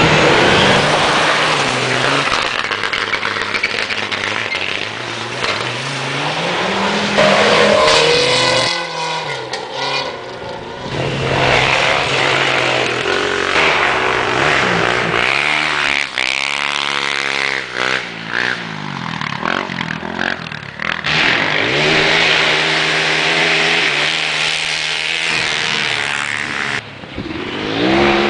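Rally car engine at full throttle, revving up and dropping back with each gear change, so the note climbs and falls several times as the car drives by on the stage.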